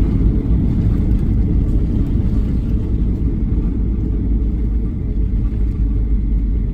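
Steady low cabin rumble of a Boeing 737-800 during its landing, the noise of its CFM56 engines and airflow heard from a rear window seat.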